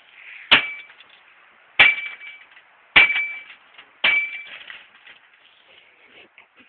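A broken microwave oven being hit four times, about a second apart, each blow a metallic clang that rings briefly.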